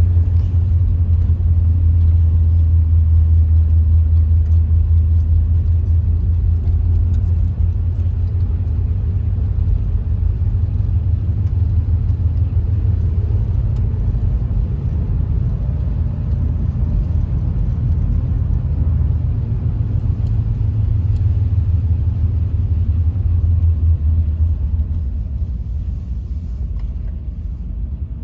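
Steady low rumble of a car driving, heard from inside the cabin, road and engine noise with no sharp events. It eases off a few seconds before the end.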